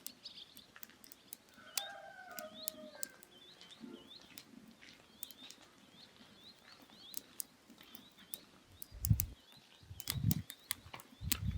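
Firewood burning in a grill, crackling with scattered sharp pops. A bird chirps over it again and again in short high notes, and a few dull low thumps come near the end.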